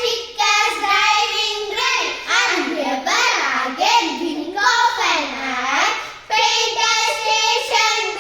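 Children singing an English poem to a simple tune, in phrases about a second long with short breaks between them.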